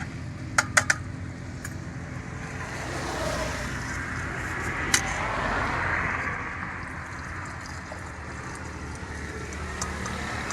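Sugarcane juice crusher running steadily with a low, engine-like hum. There are three sharp clicks a little over half a second in and another about five seconds in.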